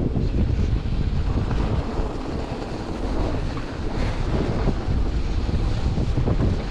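Wind buffeting the microphone of a camera carried on a moving electric bike, a steady heavy rumble throughout.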